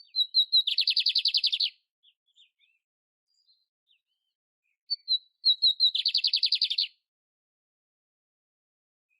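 Canário-império songbird singing two phrases, each a few short clear notes leading into a fast, buzzy trill about a second long, with a few faint soft notes in the pause between them.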